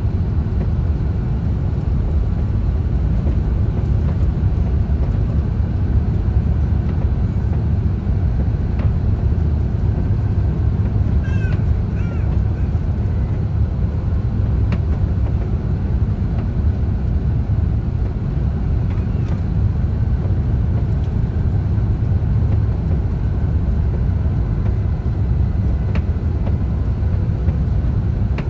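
Steady low rumble of airliner cabin noise, engines and airflow, heard from inside the cabin of an Airbus A350-1000. A few faint, brief high squeaks come about eleven seconds in and again near the end.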